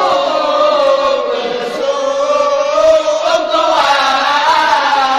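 Young men's voices chanting a sahur wake-up song together, drawing out long, slowly bending notes, a call to rouse households for the pre-dawn Ramadan meal.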